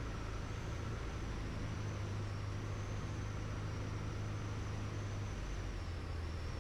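Piper Tomahawk PA-38-112's four-cylinder Lycoming engine running at low power after landing, a steady low drone that dips slightly in pitch about five seconds in.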